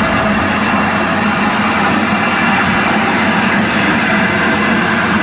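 Steam train at close range: a steady, loud hiss and rumble with no distinct exhaust beats.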